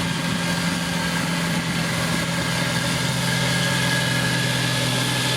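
Heavy road-construction machine's diesel engine running steadily at an even pitch, with a thin steady high tone above the hum.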